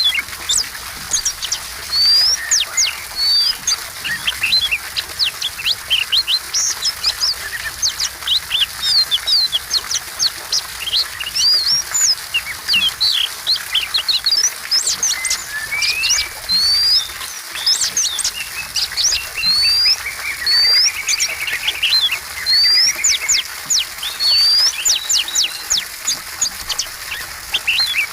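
Oriental magpie-robin singing continuously, a fast run of sharp whistles, upslurred notes and chirps. A buzzy, rattling phrase comes about twenty seconds in.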